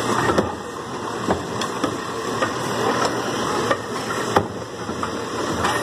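Garbage truck engine running steadily, with scattered sharp clanks and knocks.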